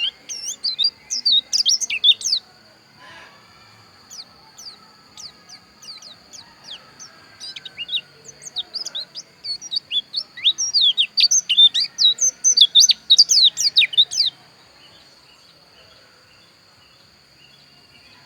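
Pleci dakun, a Bali white-eye, singing in fast, high twittering runs of quick sweeping chirps: a short run at the start, scattered notes, then a longer run in the second half that stops a few seconds before the end. A steady high tone sounds beneath the song.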